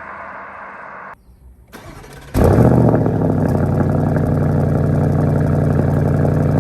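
2022 Porsche Cayenne GTS 4.0-litre twin-turbo V8 through its stock sports exhaust: after a brief lull it starts about two seconds in with a loud flare, then settles into a steady idle.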